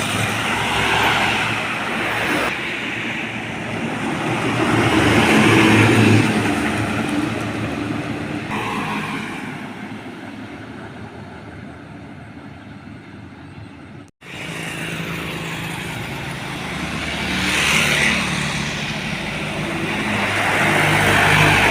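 Heavy trucks passing on a road one after another, engine and tyre noise swelling and fading with each pass-by. The sound cuts out for a split second about two-thirds of the way through.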